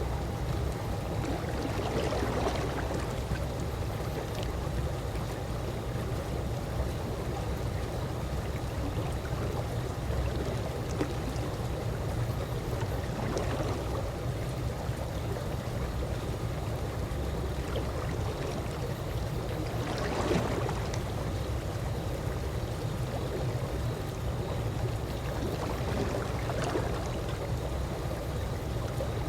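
Calm swimming-pool water lapping over a steady low rumble, with a few soft slaps of water now and then, the clearest about twenty seconds in.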